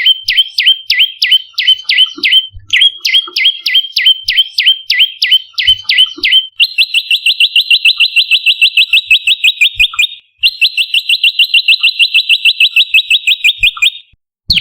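Prenjak lumut calling: a rapid series of sharp down-slurred chip notes, about four a second, pauses briefly and resumes. About six seconds in it switches to two long, fast, even trills, each stopping abruptly.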